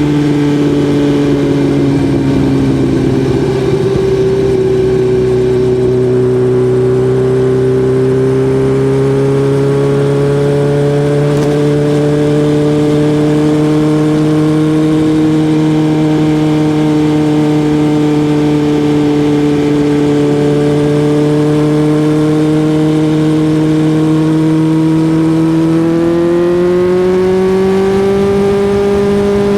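Suzuki GSX-R1000's inline-four engine running at a fairly steady speed, its pitch dropping a little a few seconds in, then holding almost level before rising near the end.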